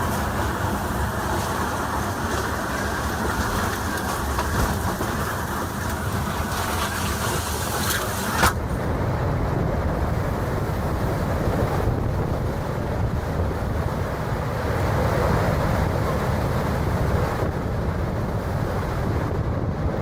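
Storm wind blowing hard across a camera microphone, a steady rushing noise heavy in the bass. A sharp click about eight seconds in, after which the sound turns duller.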